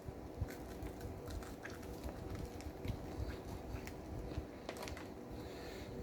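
Mouth sounds of someone biting into and chewing a BLT sandwich: scattered short crunches and clicks over a steady low hum.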